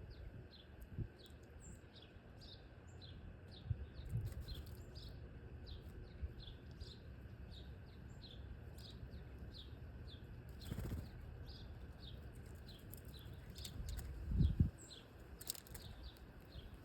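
A small bird calling with a repeated short falling chirp, two or three a second, with a few low flutters and thumps, the loudest about fourteen seconds in.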